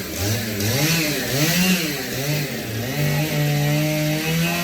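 Two-stroke chainsaw engine revving up and down several times in quick succession, then held at high speed for over a second before dropping back near the end.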